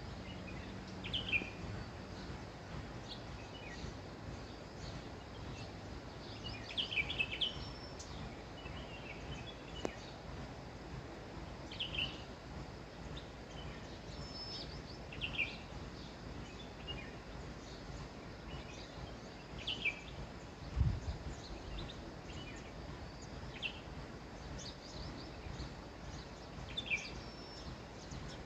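Birds chirping in short calls every second or two over a steady background hiss of outdoor noise. A single low thump about twenty seconds in.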